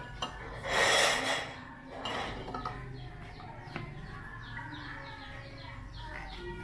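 A short, loud burst of rushing noise about a second in, then a smaller one, followed by birds chirping: quick, high, falling chirps repeating several times a second.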